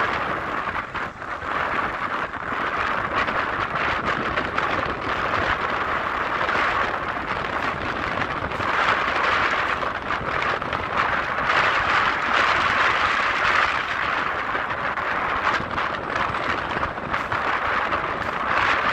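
Taipei Metro train running, a steady rolling noise that swells slightly in the middle and eases off just after the end.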